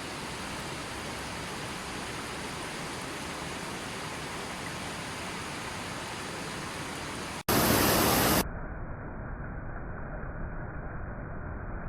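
Steady rushing of water. About seven and a half seconds in it cuts off abruptly, a loud hiss lasts about a second, then a duller, muffled rushing carries on.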